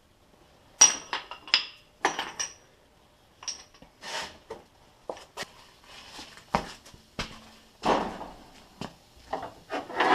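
Hammer striking an old hatchet held against a bent wheel rim to straighten it: a run of irregular sharp metallic strikes and clinks with a brief ring, the loudest about a second in.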